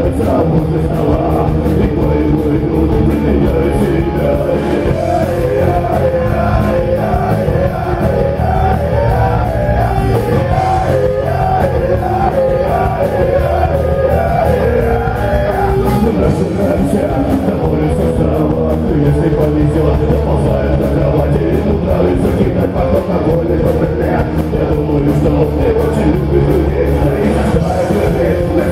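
Rock band playing live: electric guitars, bass and drums at a steady full level, with a wavering lead melody line through the middle.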